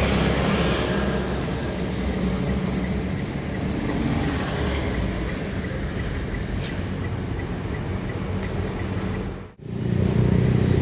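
Road traffic with a truck's diesel engine running steadily, plus faint, evenly spaced high ticks through the middle. Near the end the sound cuts off abruptly and a louder engine comes in.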